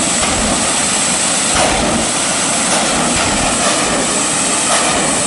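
Loud, steady running of a race vehicle's engine at a drag strip, with a high hiss riding on top.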